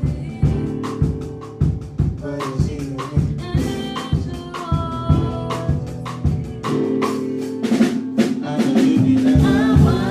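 Live band playing an instrumental passage: drum kit keeping a steady beat with sharp snare or rimshot hits under sustained keyboard chords, a quick drum fill about three quarters of the way through.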